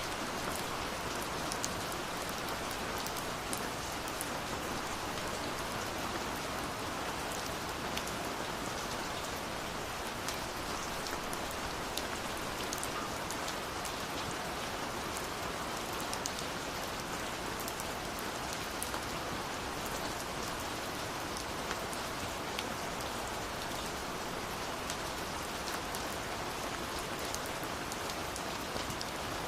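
Steady rush of falling water from a waterfall, mixed with a wood fire's frequent small crackles and pops.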